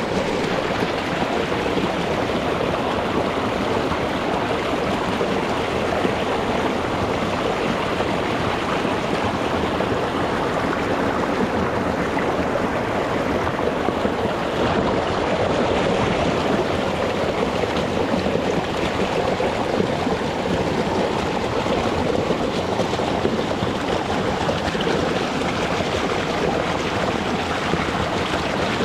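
Small rocky mountain stream running fast over stones, a steady rushing and gurgling of water, with the microphone just above the surface.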